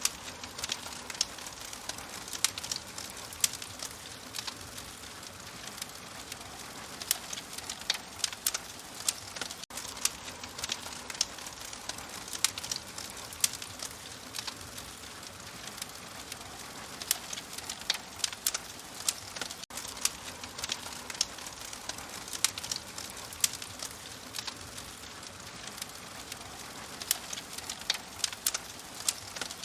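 Fire crackling, with frequent sharp irregular pops over a steady soft hiss.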